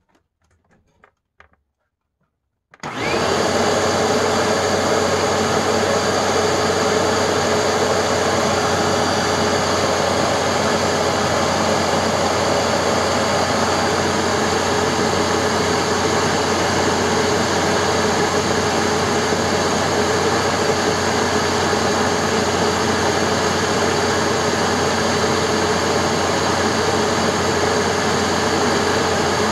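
A 2012 Hoover Tempo Wide Path upright vacuum switched on about three seconds in, reaching speed almost at once, then running loud and steady. Its brushroll is turning at about 5,400 RPM on a new belt.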